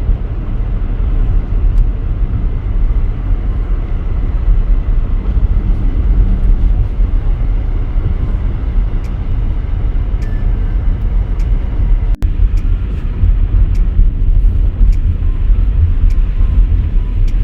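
Car driving along the road: a steady low rumble of engine and tyre noise. It drops out for an instant about two-thirds of the way through.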